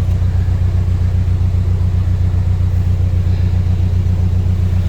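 Narrowboat diesel engine running steadily under way, a loud low thrum with a rapid, even beat.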